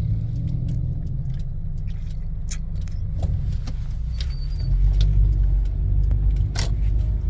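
Low, steady rumble of a car driving, road and engine noise heard from inside, growing louder a little past halfway, with a few light rattles and clicks.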